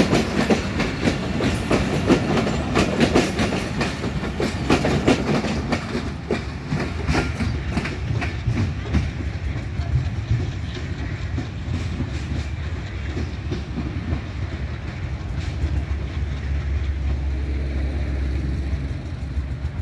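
Passenger train coaches rolling past, their wheels making a rapid clickety-clack over the rail joints. The clicks thin out and fade as the train draws away, leaving a low rumble.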